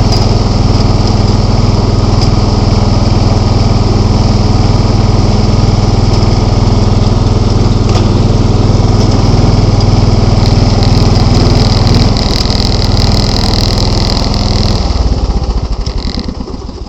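John Deere 265 lawn tractor engine running steadily, then shut off about fifteen seconds in and winding down to a stop near the end.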